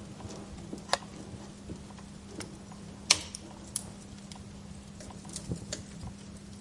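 Wood fire in a fireplace crackling, with irregular sharp pops from the burning logs, the loudest about three seconds in.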